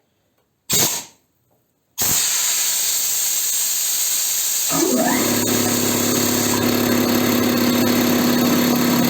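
A short puff of air hiss, then about two seconds in a loud steady hiss of compressed air escaping starts abruptly. Near the middle the SO-7B piston compressor's electric motor starts: a quick rising whine settles into a steady running hum, with the air hiss continuing over it.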